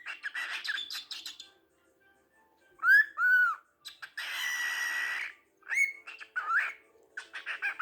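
Young male cockatiel singing: a run of chirps, then two loud arched whistles about three seconds in, a harsh buzzy screech lasting about a second, and more chirps and rising whistles near the end.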